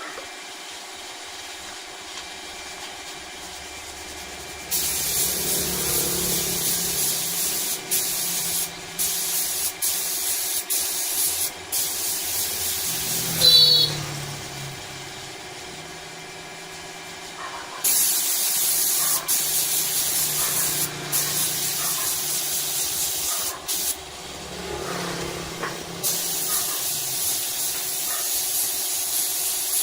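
Compressed air hissing from an air gun in long bursts with short breaks, over a low workshop machine hum. Midway there is a brief loud high squeal, then a pause of a few seconds before the hissing resumes.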